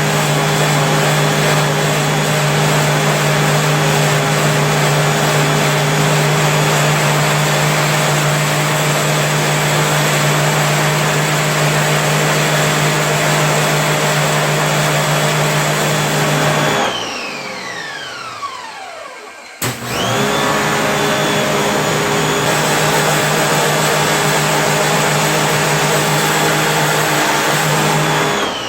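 A high-speed electric motor on a cleaning machine runs with a steady whine, is switched off and spins down with falling pitch, then after a click starts again and runs until it spins down once more at the end.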